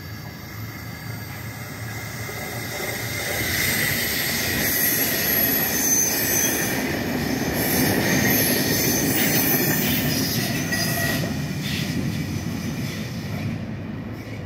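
Regional passenger train passing over a road level crossing. The sound builds over the first few seconds, is loudest through the middle with a thin high whine above the rolling noise, and dies away near the end.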